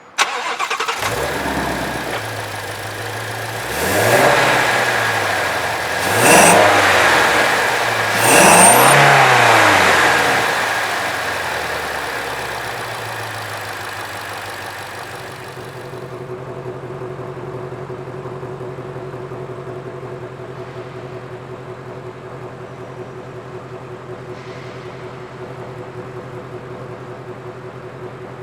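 A 2020 Ford Mustang Shelby GT350's 5.2-litre Voodoo flat-plane-crank V8 starts, is revved three times about two seconds apart, each rev rising and falling, and then settles to a steady idle.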